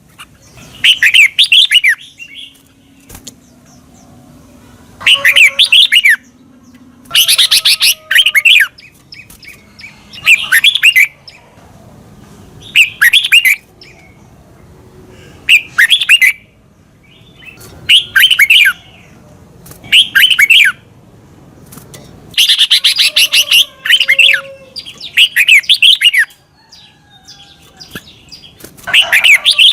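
Red-whiskered bulbul singing: short, loud, warbling phrases repeated every two to three seconds, the doubled song style that keepers play to train caged birds.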